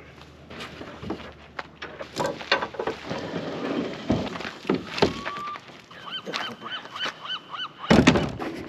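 Irregular knocks and clatter, with a bird calling in a quick run of short rising-and-falling notes late on; a louder knock comes near the end.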